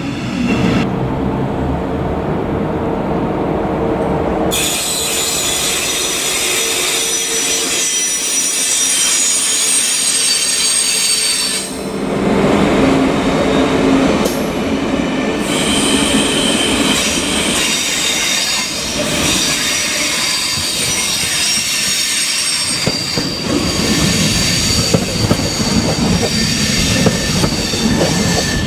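Train running through the station with its wheels squealing against the rails: several high, steady screeching tones set in a few seconds in over the rumble and clatter of the cars.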